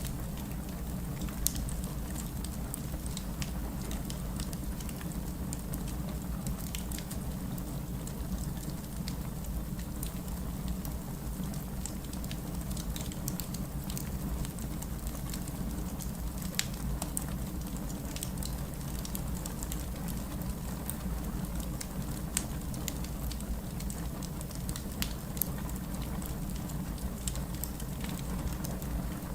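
Wood fire crackling with scattered sharp pops over the steady rush of heavy rain.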